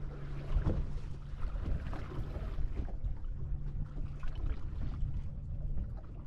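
Electric trolling motor on a fishing boat humming steadily, cutting out for about a second midway and then running again. Wind rumbles on the microphone beneath it.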